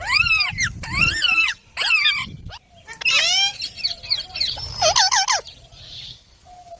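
Pet green Indian ringneck parrots calling: about six short squawks in quick succession, each rising and falling in pitch, with short gaps between them.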